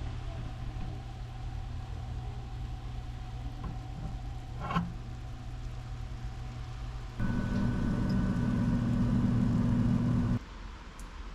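A steady machine hum with a soft click near the middle; about seven seconds in it steps up louder with a higher whine for about three seconds, then drops back suddenly.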